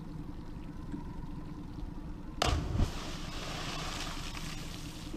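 Motorboat engine running with a steady low hum. About halfway through comes a sudden loud thump, followed by a couple of seconds of rushing hiss.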